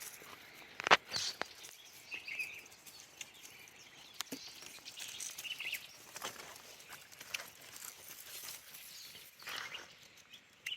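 Scattered sharp knocks and rustles, the loudest a single knock about a second in, over outdoor bush ambience with a few short, faint chirps.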